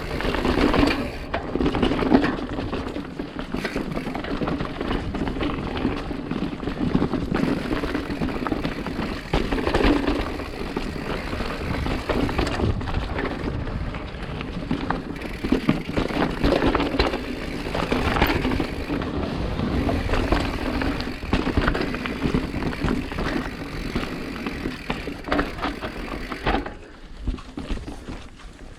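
Mountain bike ridden over a rough trail: constant rattling and frequent knocks from the bike over bumps, with tyre and wind noise.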